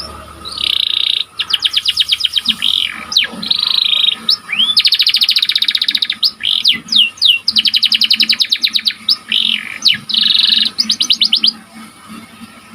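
Domestic canary singing: fast rolling trills and buzzy phrases, broken by quick upward and downward sweeping notes, before the song stops near the end.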